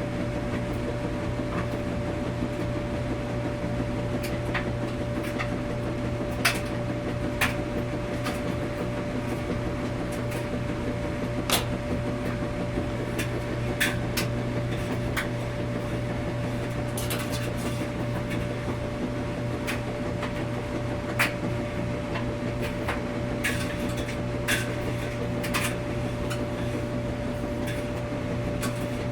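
Washing machine running: a steady mechanical hum with a constant tone, broken by about a dozen irregular sharp clicks and knocks.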